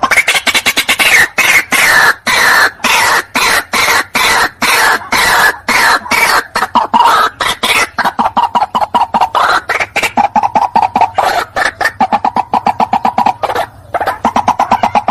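White-breasted waterhen calling: a loud, unbroken series of rapid harsh repeated notes, quickening into a faster, evenly pulsed stutter in the second half. It is a recorded call played as a lure for the bird.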